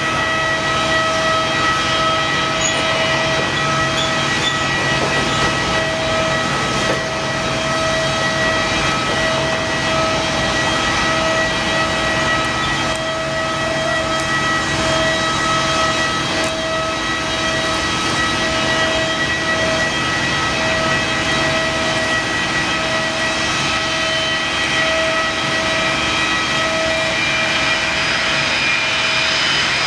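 Boeing 747-200F's Rolls-Royce RB211 turbofan engines running at low power: a loud, steady whine made of several held tones, one of which pulses slowly on and off.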